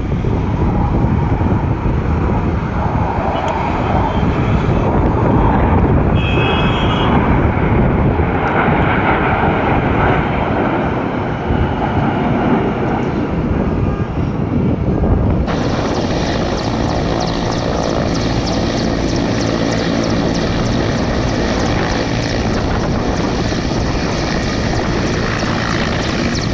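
Aircraft engines running loud and continuous as aircraft fly past. The sound changes abruptly about fifteen seconds in, turning brighter and hissier.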